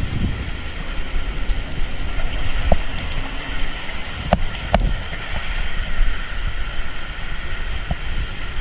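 Typhoon rain falling steadily while gusty wind buffets the microphone with a low rumble. A few sharp taps come about halfway through.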